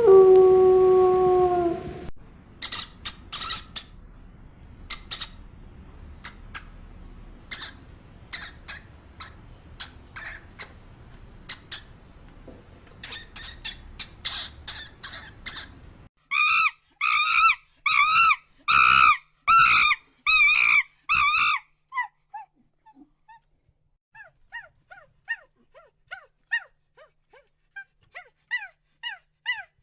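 A howl ends in the first two seconds. It is followed by a run of short, very high chirps and squeaks over a light hiss. About sixteen seconds in come eight loud, evenly spaced calls, then faint, rapid twittering chirps.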